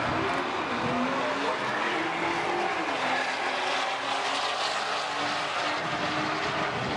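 Drag-racing cars under full throttle down the quarter-mile strip: a steady, loud engine drone with the pitch of the engines slowly shifting.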